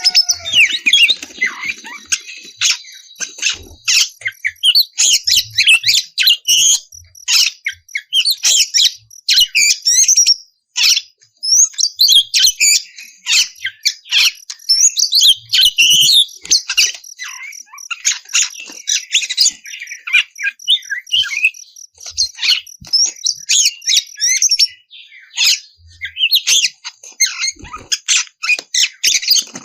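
Oriental magpie-robin (kacer) singing in full, unbroken song: a rapid run of varied high chirps and whistles, with a brief pause about ten seconds in.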